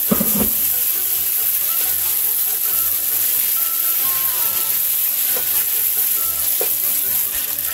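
Bacon, hominy, peppers and onions sizzling steadily in hot oil in a skillet, stirred with a wooden spoon.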